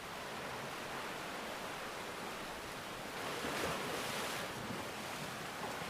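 Ocean surf washing on the shore, a steady rush with one wave swelling louder about three seconds in.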